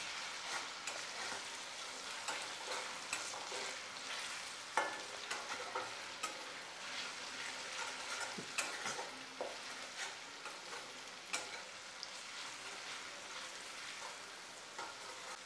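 Garlic paste, ginger and green chillies sizzling in hot oil in an iron kadhai while a flat metal spatula stirs and scrapes the pan, with scattered sharper clinks of the spatula against the iron.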